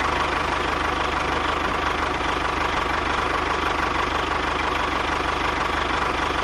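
Small engine idling steadily with a fast, even chugging, just after starting.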